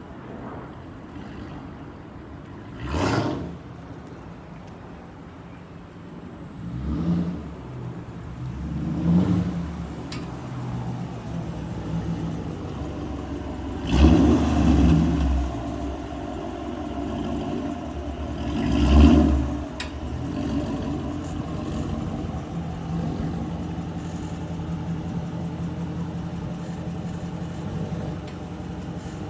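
2012 Dodge Challenger R/T's 5.7-litre Hemi V8, straight-piped with no catalytic converters, idling steadily and blipped in five short revs. The last two revs are the loudest.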